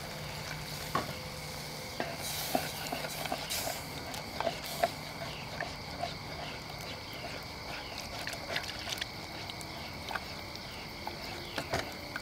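Milk poured into a hot roux in a camp pan, with a short hiss about two seconds in. A spoon then stirs with light, regular scrapes, about two or three a second. Steady insect buzzing runs underneath.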